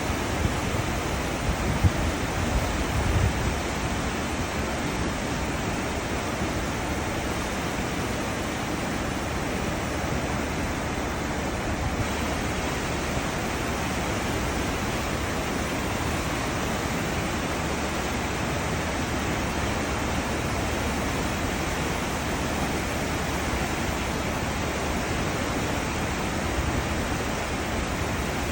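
Cruise ship's wake: a steady rush of churning white water, with a few low rumbles in the first few seconds.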